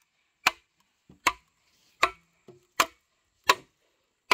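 A blade chopping in a steady rhythm: sharp, evenly spaced strikes, about six in four seconds.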